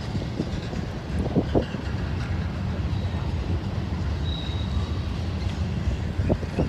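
Freight train rolling past close by: a steady low rumble of cars on the rails, with a few sharp clanks and a brief faint high squeal of wheels.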